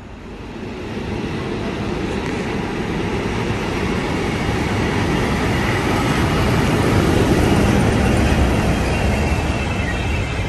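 Passenger train hauled by an SU42 diesel locomotive running on the rails: a steady, noisy rumble that swells over the first couple of seconds, is loudest a little past the middle and eases slightly near the end.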